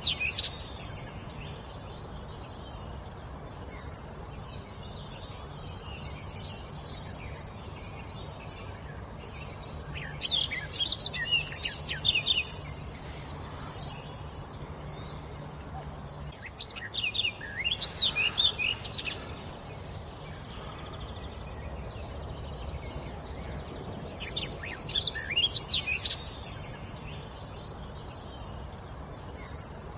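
A songbird singing in three bursts of quick, high notes. Each burst lasts about two seconds, and they come roughly every six to eight seconds over a steady background hiss.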